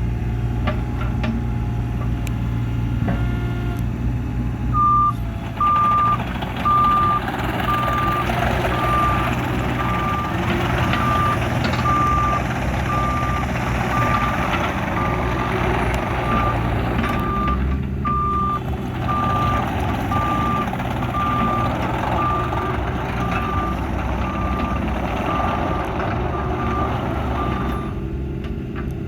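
Cat 303 CR mini excavator's diesel engine running, with mechanical clatter as it moves. About five seconds in, its travel alarm starts beeping at an even pace, a little more than once a second, and stops near the end, which signals that the machine is tracking.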